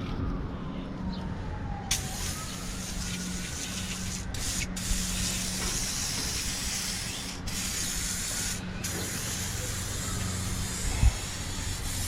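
A liquid spray hissing steadily onto the engine as it is cleaned, starting about two seconds in and cutting out briefly a few times, over a low steady hum. A short knock near the end.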